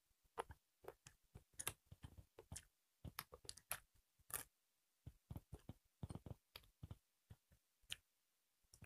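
People chewing and smacking while eating by hand: faint, irregular mouth clicks and smacks.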